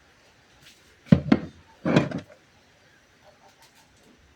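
Two short clattering knocks of things being handled: a quick double knock about a second in, then a longer clatter just under a second later.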